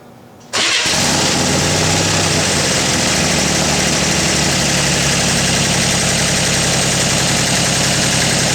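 1966 Corvair Corsa's air-cooled 140 hp flat-six starting about half a second in and then idling loud and steady through a Clarks Ultimate Exhaust with the baffles removed, open pipes.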